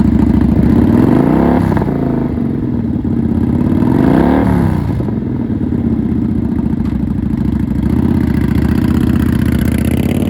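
Kawasaki Vulcan 900's liquid-cooled V-twin running through Vance & Hines slash-cut exhaust, idling with two quick blips of the throttle, at about a second and a half and about four seconds in.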